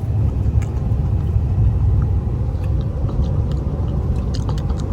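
Steady low road rumble inside a moving car's cabin, with a few faint small clicks and crackles, more of them near the end.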